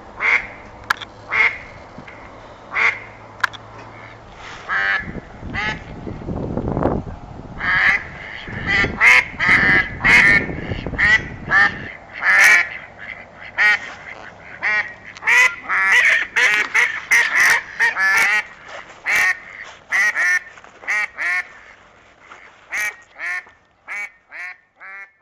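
Ducks quacking over and over, short calls that come thick and overlapping in the middle and thin out to single quacks near the end. A low rushing noise runs underneath from about five to twelve seconds in.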